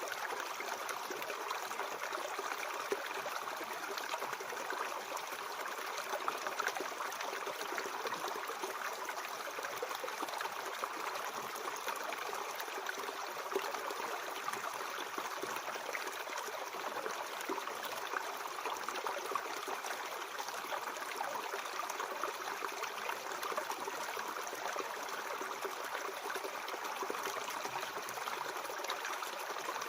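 Mountain stream flowing over rocks: steady, even water noise with a light trickling and gurgling texture.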